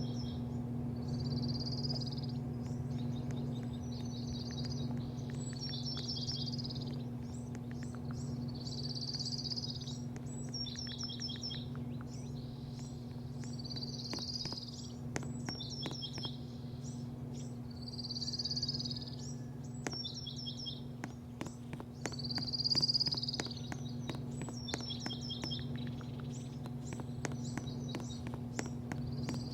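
Birds calling over and over, short harsh chirps about once a second, with scattered sharp clicks, over a steady low machine hum.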